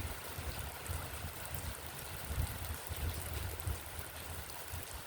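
Heavy rain pouring down in a steady hiss, with an uneven low rumble underneath.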